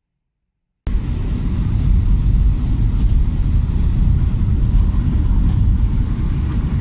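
Low rumble of a car on the move, road and engine noise, cutting in suddenly out of silence about a second in and then running steadily.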